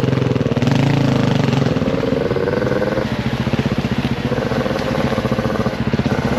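Dirt bike engine running under way on a trail, its rapid firing pulses steady, with the revs rising and falling briefly about a second in.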